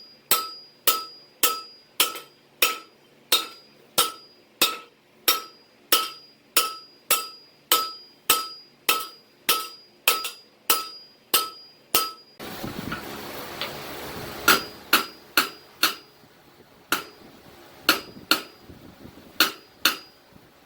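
Hand hammer blows on steel at an anvil, forging a leaf spring: a steady rhythm of about two strikes a second, each with a short metallic ring. About two-thirds of the way through, a steady rushing noise comes in and the blows become fewer and irregular.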